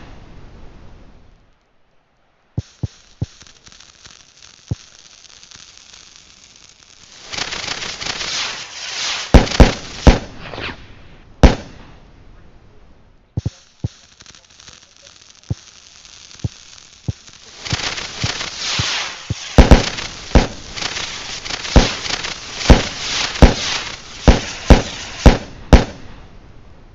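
Fireworks going off: many sharp bangs with crackling between them, coming in three stretches broken by two brief drops to near silence, with the densest run of bangs in the last third.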